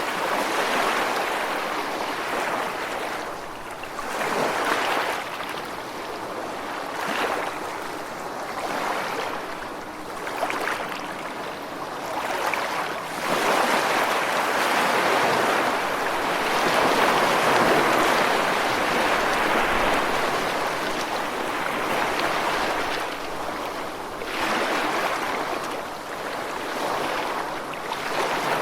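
Ocean waves washing in and drawing back, the surf swelling and fading every few seconds, with a longer, fuller wash in the middle.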